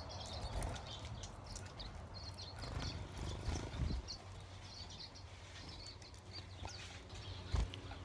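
Silvereyes giving short, high chirps, scattered irregularly, over a low rumble. A couple of dull thumps come near the end.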